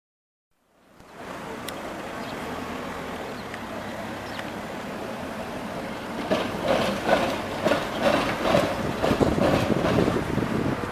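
Tram running on street track: a steady rolling rumble fades in after a moment of silence, then from about six seconds in the wheels clack repeatedly over rail joints.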